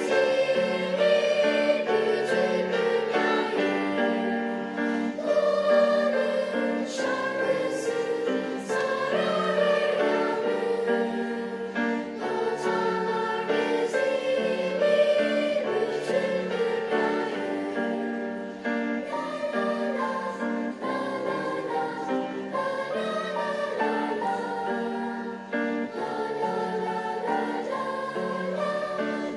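Children's choir singing a song in several voice parts.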